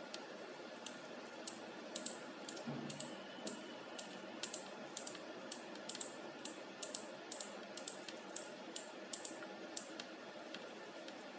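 A regular series of sharp, light mechanical clicks, about two a second, stopping near the end.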